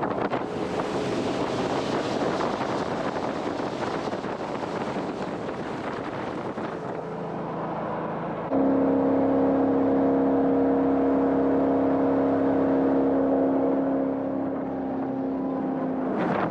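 Jet boat under way: a rush of wind and water over the microphone. About halfway through, the boat's engine and water jet come in suddenly louder as a steady drone that holds one pitch, then ease off near the end.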